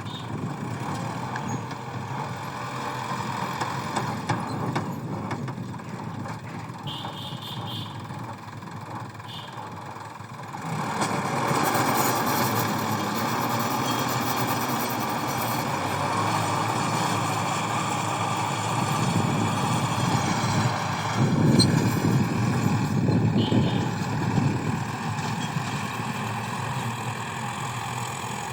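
Farm tractor's engine running steadily, growing louder about ten seconds in.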